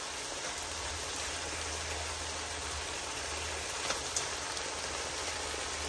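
Seasoned chicken pieces sizzling steadily in a pan as the coconut-milk sauce cooks down, with a low steady hum joining about half a second in.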